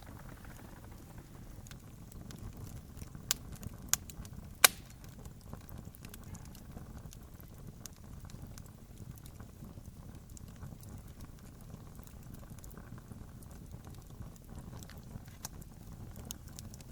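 Wood campfire crackling: a steady low rumble of the fire under scattered small clicks, with three sharp pops between about three and five seconds in, the last the loudest.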